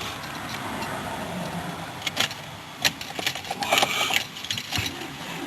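Car keys jangling, with scattered clicks and rattles in clusters about two, three and four seconds in.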